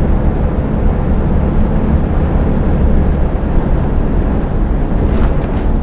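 Steady low drone of a semi-truck's diesel engine and tyre noise, heard from inside the cab at motorway speed.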